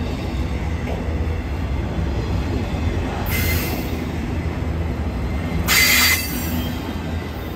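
A freight or passenger train rolling past on the tracks, a steady low rumble, with two brief high-pitched wheel squeals about three and a half and six seconds in, the second louder.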